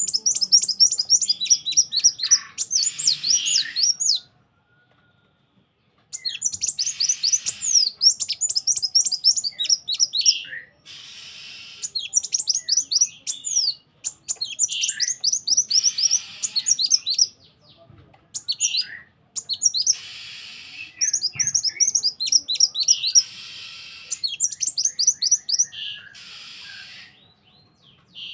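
Kowul songbird song: phrases of a few seconds made of fast, high, downward-slurred chirps, several a second, broken by short pauses and stretches of buzzy, hissy rasping. It is a lure (pancingan) song, played to set a kowul singing.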